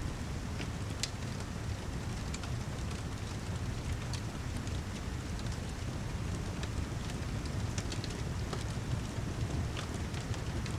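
Steady rain falling with a low rumble underneath, mixed with the scattered sharp crackles and pops of a fireplace.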